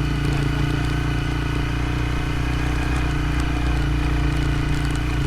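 Motorcycle engine idling steadily, its pitch holding even with no revving.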